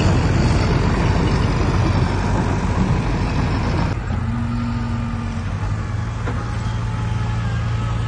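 Heavy diesel construction machinery working under load, then easing about four seconds in to a quieter, steadier engine run with a faint whine.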